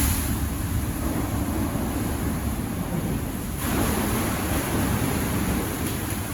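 Storm waves surging and water rushing, over a steady low rumble. About three and a half seconds in, a louder rush of water comes.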